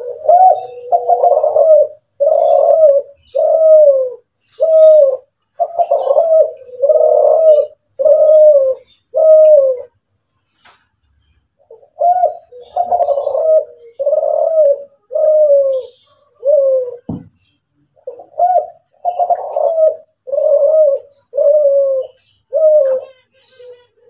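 Kelantan-strain spotted dove (derkuku) cooing its 'manggung' song: a long run of deep, repeated coo notes, each dipping in pitch at its end, broken by a short pause a little before halfway, then resuming.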